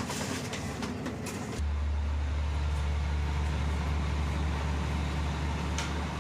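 Passenger train running: rattling noise with a few sharp clicks, then from about a second and a half in a loud, steady low drone.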